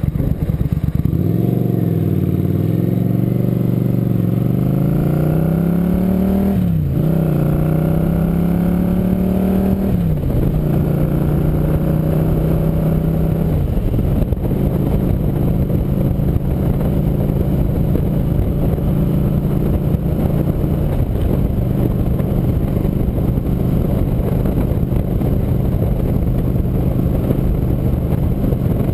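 Motorcycle engine pulling away and accelerating up through the gears: the pitch climbs, then drops sharply at each upshift, four times in the first twenty seconds or so, before settling into a steady cruise. A constant rushing noise runs underneath.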